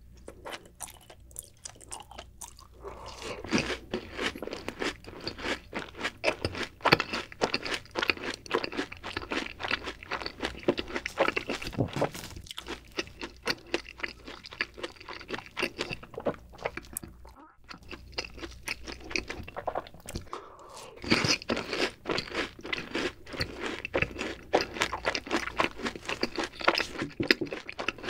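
Close-miked chewing of a crisp-crusted fried cheese ball dipped in cheese sauce: dense crunching that starts a couple of seconds in, dips briefly about two-thirds through, then picks up again.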